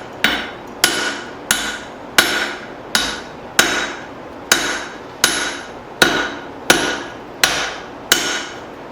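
Steady hand-hammer blows on hot steel, twelve strikes about every 0.7 s, each with a brief metallic ring, as a drift is driven into the punched eye of a forged hammer head.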